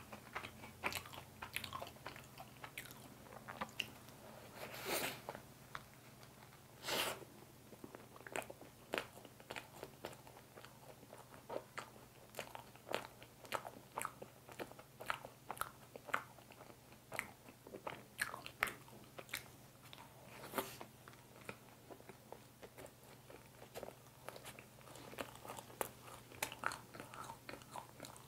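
Chewing and biting of a fresh cream mocha bun, a chewy bun filled with whipped cream: a steady run of small mouth clicks, with a few louder ones about five, seven and twenty seconds in, over a faint steady hum.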